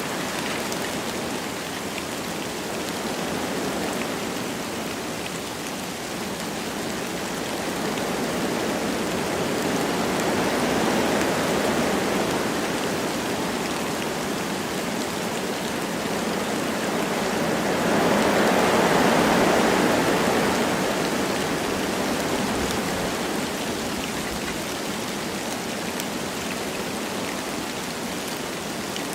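Wind blowing through forest trees with light rain falling: a steady rushing that swells in slow gusts, once about a third of the way in and more strongly about two-thirds through.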